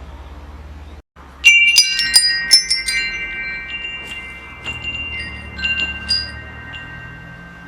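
Metal wind chimes struck in a quick cluster of bright strikes, the tubes ringing on in long, steady high tones, then a few scattered strikes. Beneath, a low steady rumble cuts out briefly about a second in.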